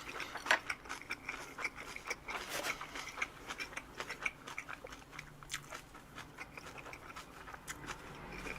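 Close-up chewing of a crunchy bossam wrap of napa cabbage, boiled pork and mushroom: irregular wet crunching clicks that thin out and get quieter toward the end.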